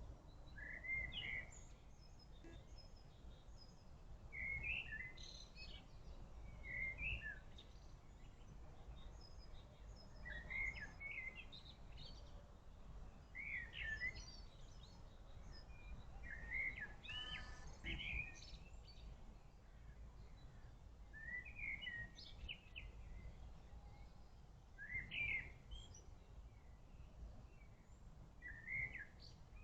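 Songbird singing short chirping phrases that repeat every couple of seconds over a steady low background rumble.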